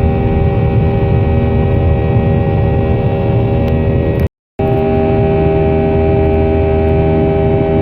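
Loud, steady buzzing hum made of several fixed tones over a low rumble, cutting out completely for a moment about four seconds in.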